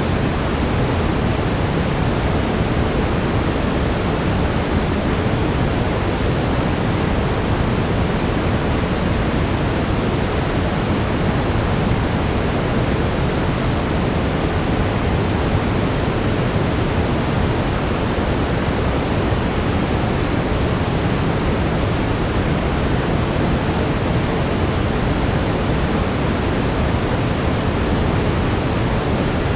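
Steady brown noise: an even, unchanging hiss weighted toward the low end.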